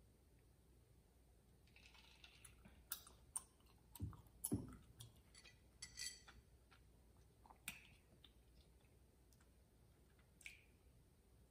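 Quiet close-up eating sounds: scattered small clicks and soft chewing from a mouth working through tteokbokki, with a couple of dull knocks about four seconds in.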